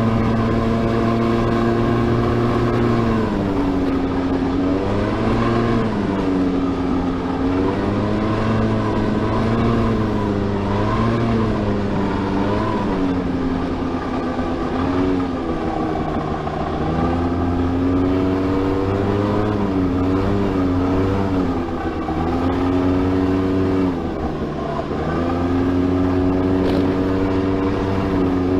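Honda Lead 100 scooter's two-stroke engine running, its pitch held steady and then dipping and rising again several times as the throttle changes. The owner suspects a crankshaft bearing noise.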